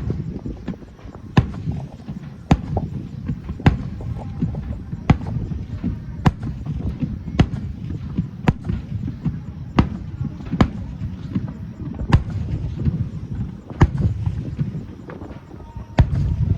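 Fireworks display: aerial shells bursting in a rapid run, with sharp bangs about once a second over a continuous low rumble of overlapping booms.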